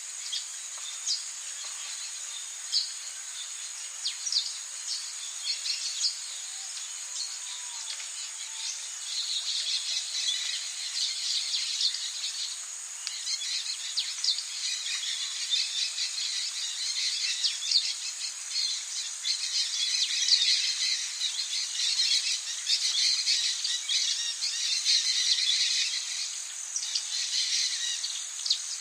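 Rainforest ambience: a steady high insect drone with many short bird chirps and calls over it. The chorus grows denser and louder about a third of the way in.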